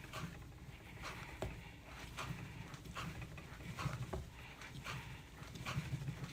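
Clay being wedged by hand on a canvas-covered wooden board: repeated soft thumps and pushes, about two a second, in an uneven rhythm.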